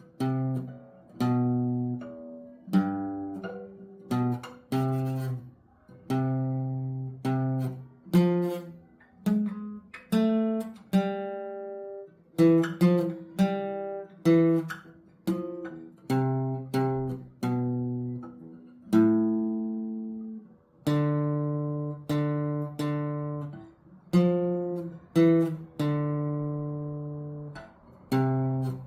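Acoustic guitar playing a slow melody, picked notes and chords one after another, each ringing out and fading before the next.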